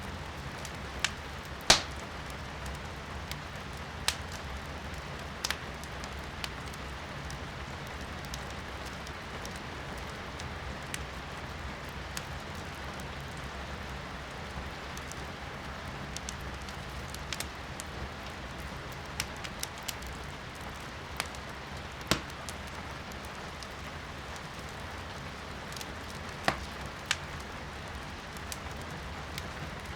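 Firewood burning in a fireplace, crackling with sharp, irregular pops, the loudest about two seconds in, over steady rain heard from indoors.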